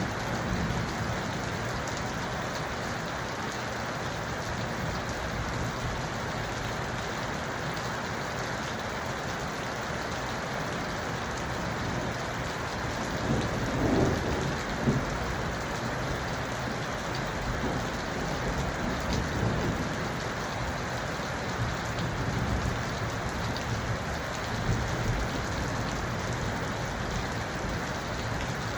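Steady rain falling, an even hiss throughout, with low rumbles swelling in under it, the strongest about halfway through.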